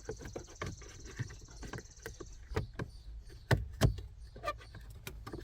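Plastic cover plate under a car's dashboard being handled and pushed back into place: a string of hard clicks and knocks, with two louder knocks a little past the middle.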